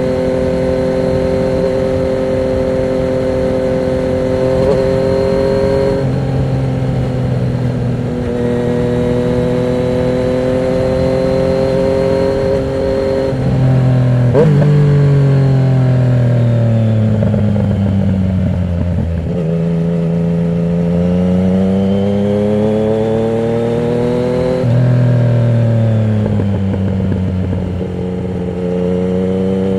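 Yamaha MT-09's three-cylinder engine through a Termignoni exhaust with the dB killer removed, heard on the move: it holds a steady pitch, shifts gear a few times, falls slowly in pitch as the bike slows around the middle, then climbs again under acceleration before another gear change.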